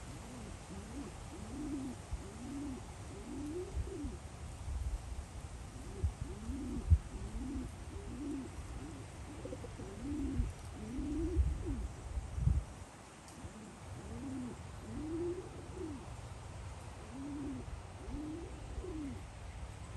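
Soft, low cooing bird calls, one rising-and-falling note after another in short runs, over a low rumble with a few thumps.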